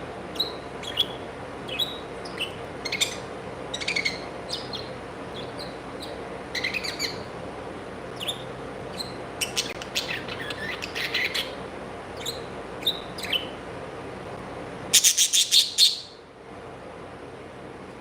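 Pet birds chirping in short high calls throughout, with a loud rapid run of about six chirps near the end, over a steady low hum.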